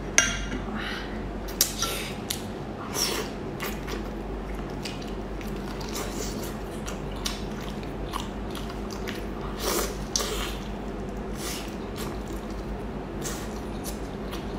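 Close-miked eating sounds: biting into and chewing sauce-coated scallops, with scattered short wet clicks and smacks over a low steady hum.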